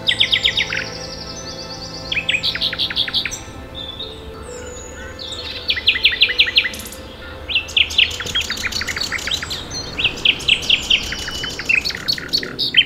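Common nightingale singing: loud phrases of fast repeated notes, each phrase a second or so long, separated by short pauses.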